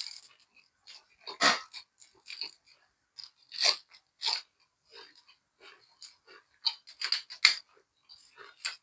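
A person chewing and smacking their lips while eating minced chicken laab with fresh vegetables, with irregular short crunches and mouth clicks. The louder crunches come about a second and a half in, near the middle, and again around seven seconds in.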